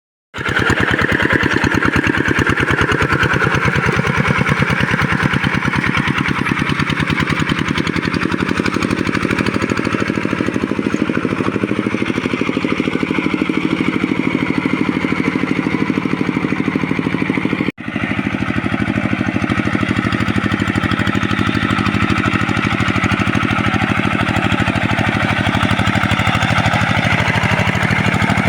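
Walk-behind hand tractor's single-cylinder diesel engine running steadily under load, with a fast, even firing pulse. The sound cuts out for an instant about 18 seconds in.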